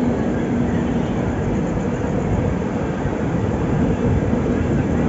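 Passenger train running on the line, a steady loud noise of wheels and carriage with a faint steady hum.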